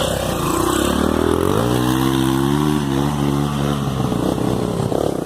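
Off-road motorcycle engine running under load on a trail climb, its pitch rising about a second in, then holding steady before easing slightly near the end.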